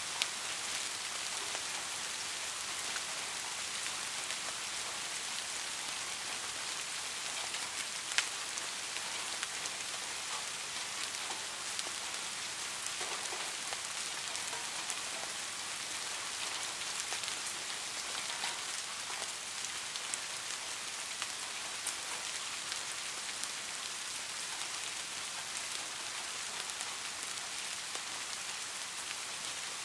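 Steady rainfall: an even hiss of dense drop patter, with scattered individual drop ticks and one sharper drop about eight seconds in.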